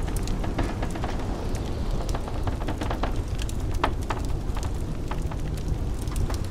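Crackling fireplace: wood fire popping and snapping in many small irregular clicks, over a steady low rumble of blizzard wind.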